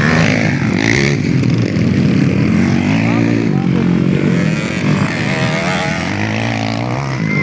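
Underbone motorcycle engines revving hard, their pitch rising and falling repeatedly as the riders work the throttle, with voices faintly underneath.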